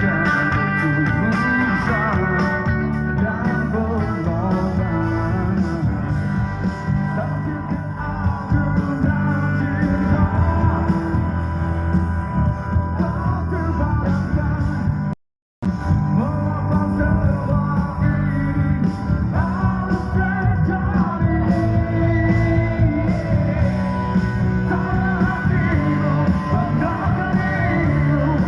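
Live rock band with a lead singer and electric guitar, playing loud through the PA. The sound cuts out completely for about half a second midway, then the song carries on.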